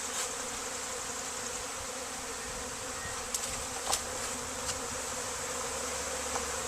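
Swarm of honey bees in the air, buzzing steadily after the cluster has been shaken down from the limb, with a couple of faint ticks midway.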